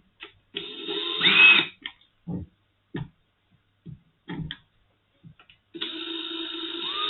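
Small electric drill running in short goes on the meter's plastic screw-hole caps: a brief whir about half a second in whose whine climbs in pitch, a few knocks and clicks of handling, then steady drilling from about six seconds in, its whine climbing again.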